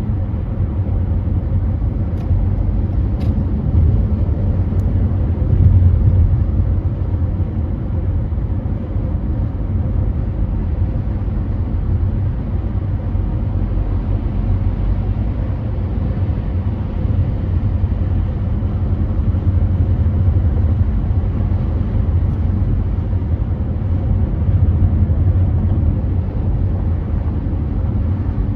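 Steady low road and engine rumble of a car cruising on a freeway, heard from inside the cabin, with a few faint ticks a few seconds in.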